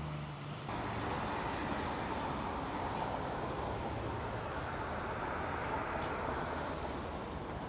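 Steady street ambience with the rush of road traffic, without distinct events.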